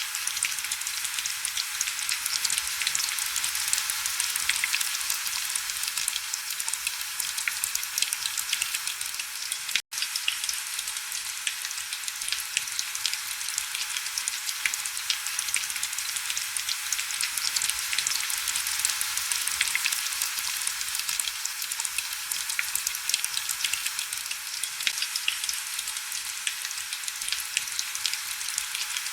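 Heavy rain falling steadily, a dense crackling patter of fine drops with little low rumble. The sound cuts out for an instant about ten seconds in.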